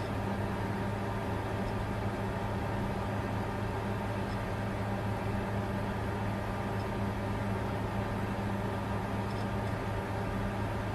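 Bitcoin mining computer running steadily: a constant whir of cooling fans over a low, even hum.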